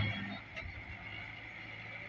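Tractor engine running steadily with an even hum.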